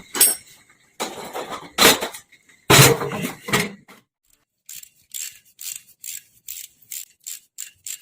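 Hand work on metal parts: a few loud clanks and scrapes in the first half, then a run of short, even scraping strokes, about three a second.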